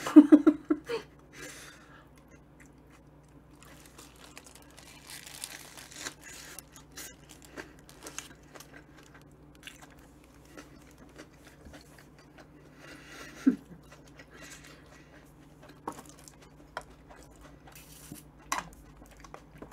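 A person chewing a mouthful of sandwich close to the microphone: quiet crunching and small wet mouth clicks, with soft crinkling rustles about five seconds in and again around thirteen seconds. It opens with a short burst of voice.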